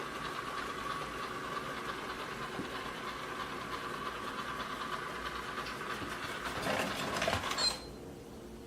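Chuwi ILIFE V5s robot vacuum running with a steady whir. It gets louder and rougher a little before the end, then cuts off suddenly.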